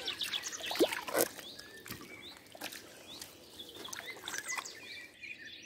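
Birds singing in the background with rapid, repeated chirps, and a few short knocks in between.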